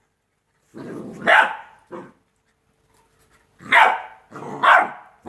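Two-month-old Rottweiler puppy barking, four short barks with gaps of silence between them.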